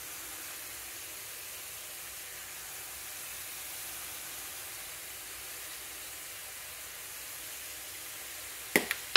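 Diced tomato, onion and jalapeño sizzling steadily in hot oil in a frying pan, with a few sharp clicks near the end.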